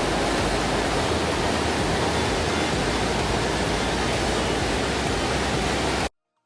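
Waterfall's rushing water, a steady dense roar that cuts off suddenly about six seconds in.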